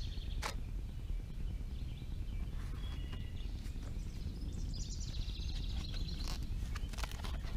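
Steady low background rumble with a few sharp clicks from loose scooter parts being handled. About five seconds in there is a brief high, rapid trill.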